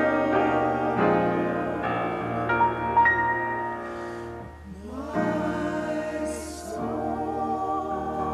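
Church choir singing sustained chords with instrumental accompaniment. The music dips briefly in level about halfway through, then carries on.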